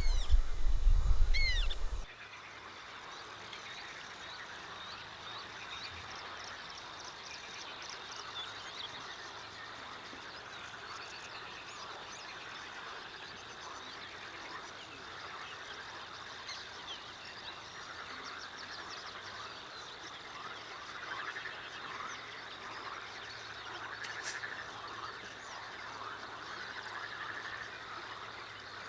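Frogs croaking in a chorus of many short, repeated calls, with a thin steady high tone beneath them. A louder sound fills the first two seconds and cuts off abruptly.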